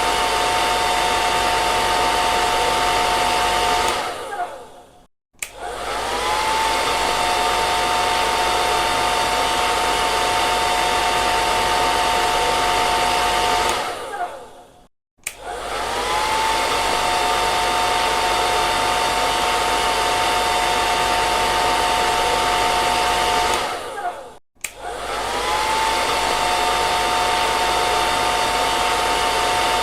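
Electric hair dryer running with a steady blowing rush and a whine. Three times its motor dies away with a falling pitch to a moment of silence, then comes back with a rising whine as it spins up again.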